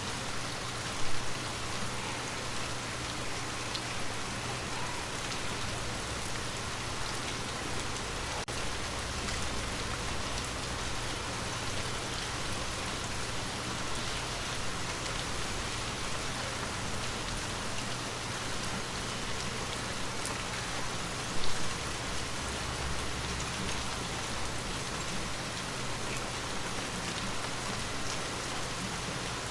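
Steady, even rain falling on a window pane, with two brief louder knocks, one about a second in and one about two-thirds of the way through.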